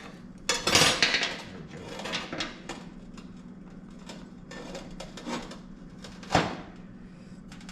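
Metal parts and tools being handled and clanked in a workshop, with a loud rustle-and-clatter about a second in and a single sharp knock near the end, over a steady low hum.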